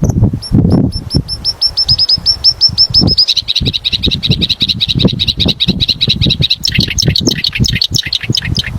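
A songbird singing one long song: a run of falling, whistled notes that speed up into a rapid, even trill about three seconds in, turning into a rougher, lower trill near the end. Loud uneven rustling runs underneath.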